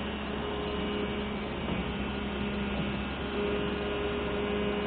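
Steady mechanical hum of running machinery, with a low tone and a higher tone; the higher tone drops out for about a second and a half midway, then comes back.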